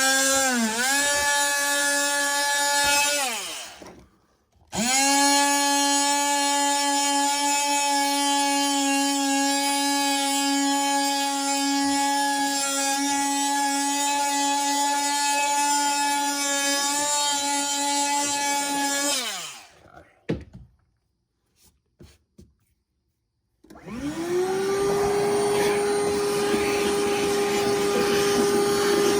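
Electric power tool motor whining as it is switched on and run three times, winding up in pitch at each start. It runs steadily for about fourteen seconds in the middle, winds down, then starts again at a higher pitch near the end.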